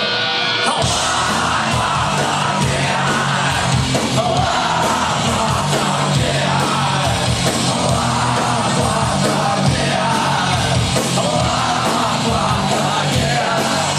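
Punk rock band playing live at full volume: electric guitars, bass and drums in an instrumental passage between sung lines. The full band comes in about a second in.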